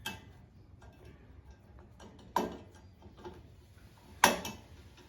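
Metal clinks and knocks from tools and metal parts being handled while a turbo whistle is fitted to a motorcycle. There are three sharp knocks, the loudest near the end, with faint ticking in between.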